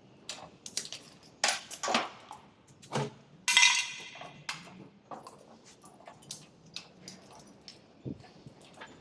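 Irregular metallic clinks and knocks from tools and metal parts being handled, with one loud ringing metal clang about three and a half seconds in.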